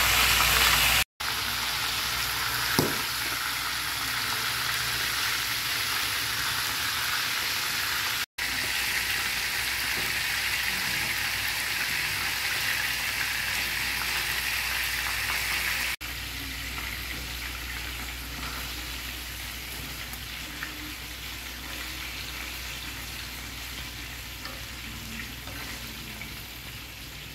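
Whole squid deep-frying in hot oil in a pan, a steady sizzle with a single light click about three seconds in. The sizzle drops out briefly twice and grows softer about halfway through.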